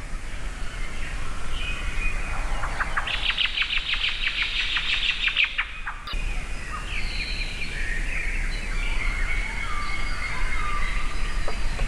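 Birds singing: a rapid trill from about two seconds in until a cut near six seconds, then several birds chirping and calling over one another, over a low steady background rumble.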